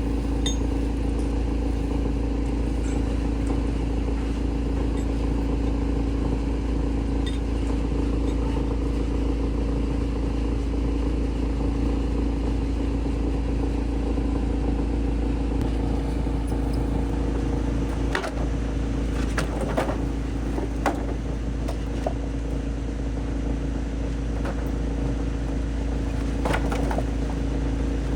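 Large wood chipper's engine running steadily at an even pitch. A few sharp knocks and cracks break in over the second half.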